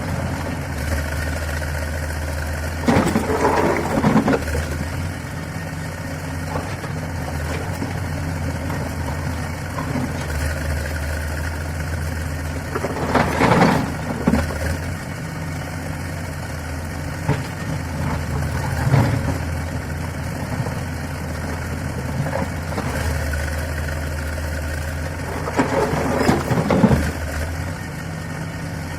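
Heavy-equipment diesel engine running steadily at low revs. Four louder, rougher bursts of a second or two break in over it.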